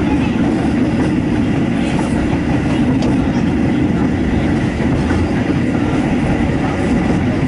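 Passenger train carriage in motion, heard from inside: a steady low rumble of wheels on the track with a few faint clicks.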